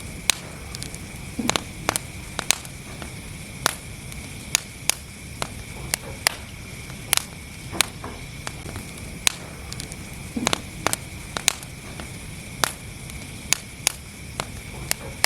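Wood fire burning in a fireplace: irregular sharp crackles and pops, a few each second, over a steady low rumble of the flames.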